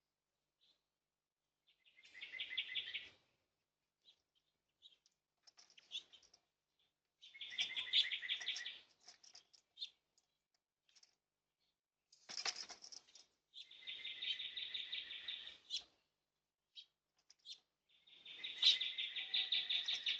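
A bird singing a rapid trill, repeated four times a few seconds apart, with short chirps in between.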